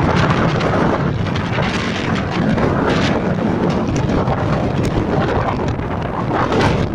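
Strong gusting wind buffeting the microphone, a loud continuous rumbling roar without letup.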